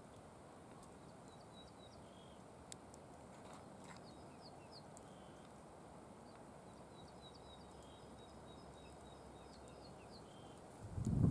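Faint songbird song: phrases of short, high, repeated notes over a steady background hiss. Near the end a loud low rumble cuts in.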